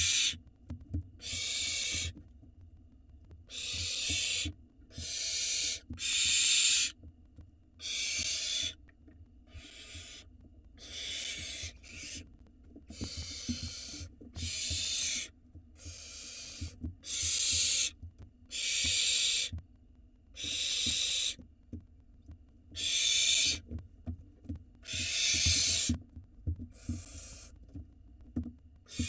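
Barn owl nestlings making their hissing begging calls, a harsh burst roughly every second, over and over. Faint low knocks sound underneath.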